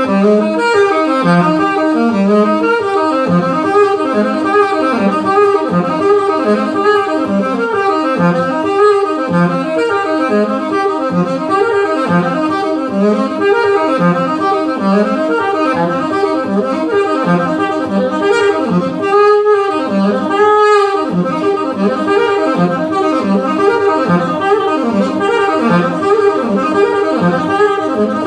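Live band playing an up-tempo jazz number, a lead horn line over steady repeating low notes; the music stops abruptly at the end.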